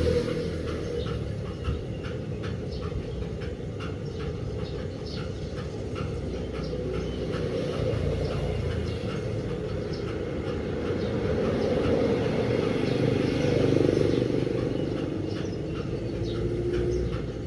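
A DELTA 16 kg washing machine running, with a steady low rumble from the drum and motor that swells and eases, and faint ticks on top.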